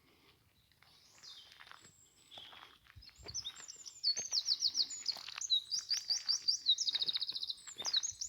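Songbird singing in woodland: quiet at first, then from about three seconds in a fast run of high, repeated chirping notes that grows louder and denser from about four seconds.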